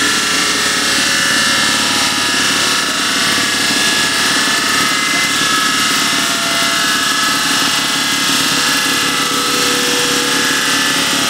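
MG Midget race car's four-cylinder engine running steadily on a rolling-road dynamometer, a loud, even, rattly mechanical note at a constant speed.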